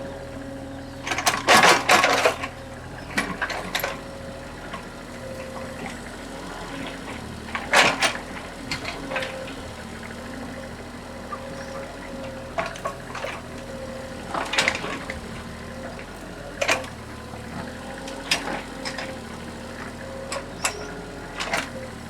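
Excavator's diesel engine running steadily, with scattered sharp clanks and splashes from the bucket working in mud; the loudest clatter comes a second or two in.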